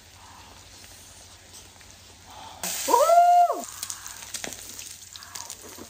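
Pork sizzling on a hot grill, an even crackling hiss like rain. About halfway through, a short, louder note lasting about a second rises and then holds one pitch, most likely a person's voice.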